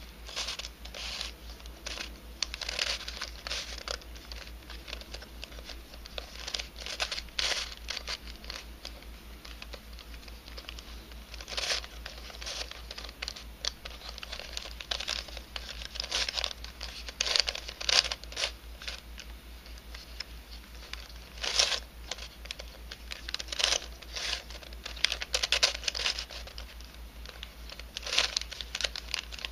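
Twisty puzzle of 3D-printed nylon being turned by hand: irregular clicks and rasping scrapes as the helicopter cube's pieces slide and twist against each other.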